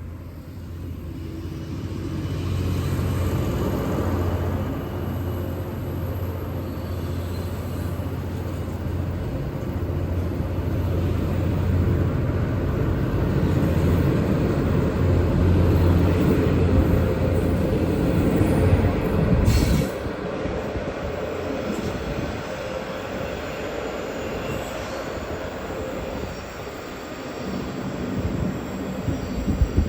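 Diesel-hauled passenger train rolling past, a steady low drone that builds over the first few seconds. About two-thirds of the way through there is a sharp click, after which it runs quieter.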